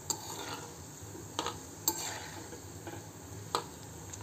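Dried coconut pieces sizzling steadily in hot oil in an aluminium kadhai, with a few sharp clicks of a perforated metal spoon against the pan as they are stirred.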